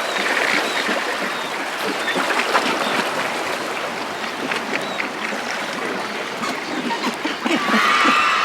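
Flowing stream sound effect: a steady rush and trickle of water with small splashy clicks through it.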